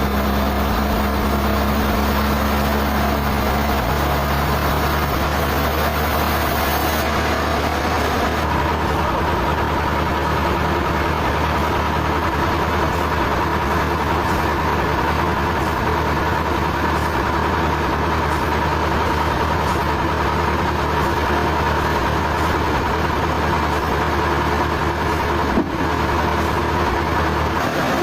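Sawmill machinery running steadily, a loud engine-like drone. A steady whine comes in after about eight seconds, and there is a single sharp knock near the end.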